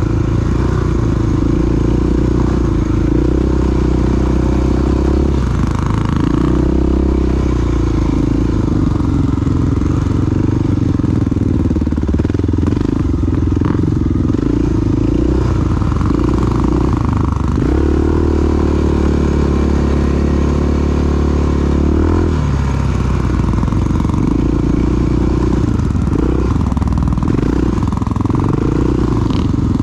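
Large single-cylinder four-stroke dual-sport motorcycle engine running while riding, its pitch stepping up and down with throttle and gear changes and held steady for a few seconds about two-thirds through.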